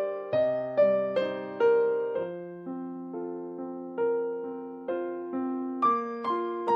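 Background music: a solo electric piano playing slow chords, each struck and left to ring and fade, roughly two a second.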